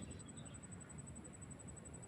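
Faint outdoor ambience: a steady, high, pulsing insect-like trill with a low rumble underneath, and a faint bird chirp just after the start.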